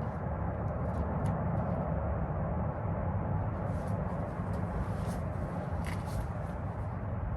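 Steady low rumbling background noise, with a few faint light clicks scattered through it.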